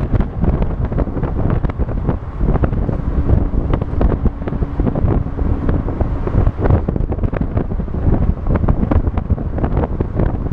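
Heavy wind buffeting the microphone of a moving vehicle, gusting loudly over the low rumble of the ride. A faint steady tone holds for about three seconds near the middle.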